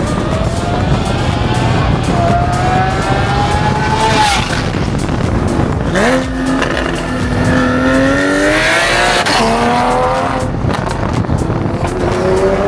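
High-performance car engine accelerating hard through the gears. Its pitch climbs steadily in each gear and drops sharply at each upshift, a few times over.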